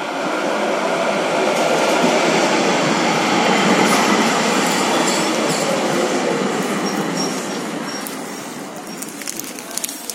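A train pulling in along the platform: a loud, even rumble of wheels on rails that builds to its peak a few seconds in, then fades as the train slows. Near the end it braking brings a faint high squeal and a few sharp clicks as it comes to a stop.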